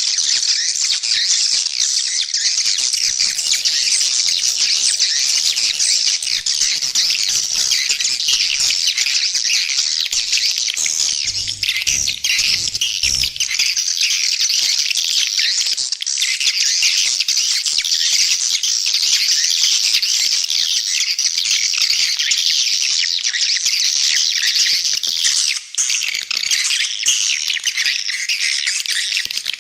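Swiftlets calling in a dense, unbroken high chittering twitter, a swiftlet lure call of the kind played to draw the birds into a swiftlet nesting house.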